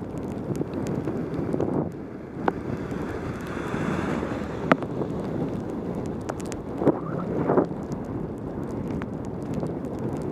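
Wind rushing over a helmet camera's microphone during a fast bicycle descent, with a few sharp clicks and knocks from the bike.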